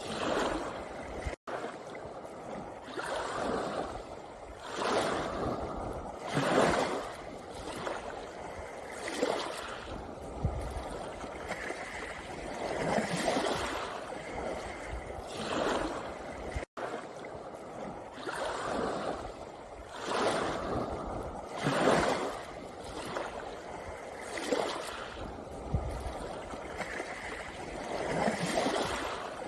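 Small sea waves washing in and out over a pebble beach, a surge every two to three seconds. The sound cuts out for an instant twice.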